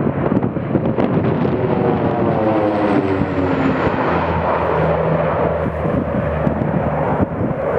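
Fixed-wing airplane flying past overhead, its engine note falling in pitch as it goes by, followed by a steady low engine hum.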